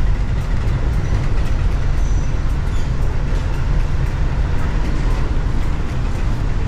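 Steady low rumble of an Amtrak Acela train in motion, heard from inside a passenger car.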